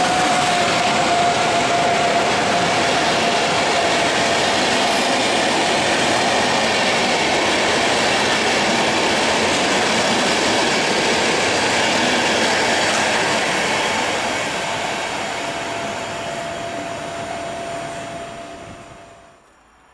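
PKP InterCity EU44 'Husarz' electric locomotive and its passenger carriages running past close by: a loud, steady rolling noise of wheels on rail, with a steady whine at first that fades away. The noise dies down over the last few seconds and cuts off suddenly just before the end.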